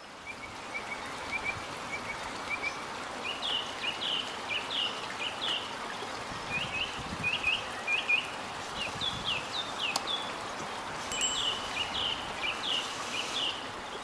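A small songbird singing in runs of short, quick chirps that slide downward, over a steady background hiss.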